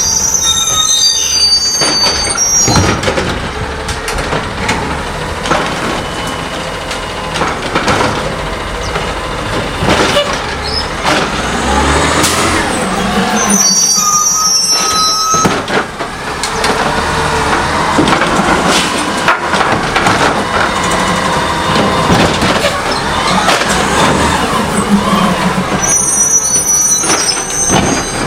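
CNG-powered Heil Scorpion automated side-loader garbage truck running, with repeated metal clanks and knocks. Brief high squeals come three times, about 13 seconds apart.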